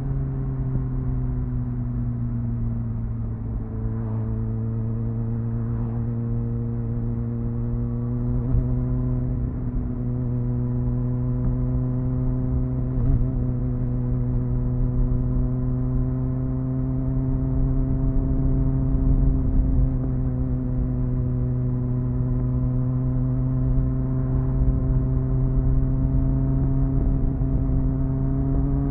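Triumph Speed Four's 600cc inline-four on its stock exhaust, running at fairly steady cruising revs under a low wind rumble. The engine note drops over the first few seconds as the throttle eases, then holds and slowly climbs.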